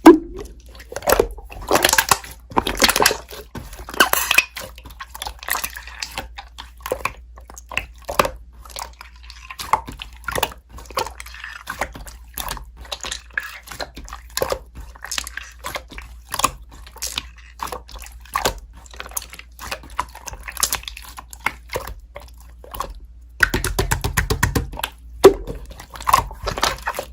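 Slime being squeezed, poked and stretched by hand, giving irregular wet, sticky clicks and pops, with a denser run of them near the end.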